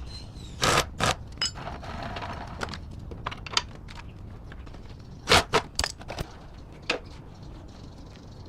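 Irregular knocks and clicks over a low, steady background hum. There are two loud knocks about a second in and a cluster of them about five to six seconds in.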